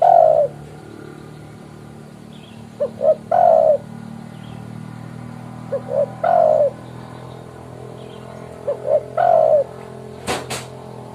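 Spotted dove (tekukur) cooing its territorial call to a rival: two short coos followed by a longer, falling coo, repeated about every three seconds. Two sharp clicks about ten seconds in, over a steady low hum.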